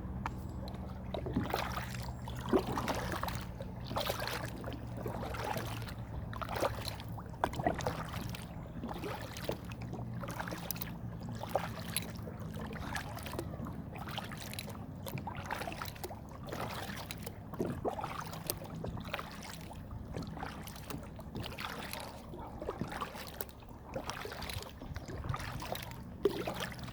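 Kayak paddle blades dipping and pulling through calm lake water, a splashing stroke about once a second with drips in between. Under it runs a steady low hum of distant highway traffic.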